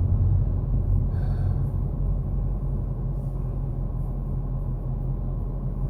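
Steady low drone of a car's engine and tyre noise, heard from inside the cabin while driving.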